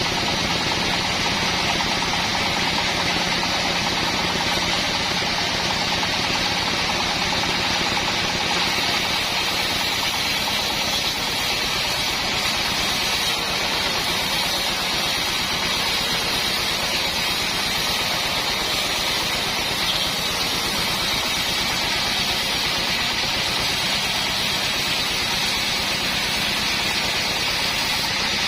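Assembled bandsaw mill running steadily, its motor and blade making a continuous mechanical noise. A low hum in it fades about ten seconds in.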